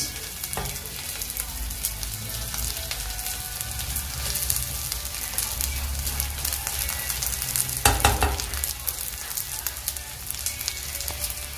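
Food sizzling in oil in a metal kadai on a gas burner, with a wooden spatula scraping and stirring against the pan. A louder knock about eight seconds in.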